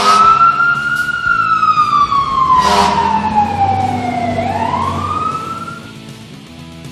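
Wailing siren, its pitch rising, falling slowly over a few seconds, then rising again, with a short rushing burst about three seconds in.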